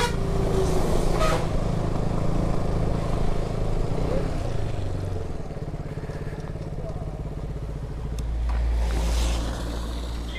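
KTM Duke 200 single-cylinder engine running while riding. Its note steps down about halfway through, and a low rumble swells near the end.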